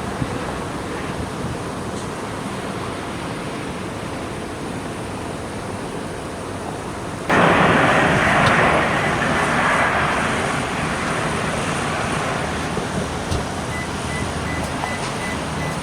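Jet airliner engines making a steady rushing noise that jumps abruptly louder about seven seconds in and then slowly eases off.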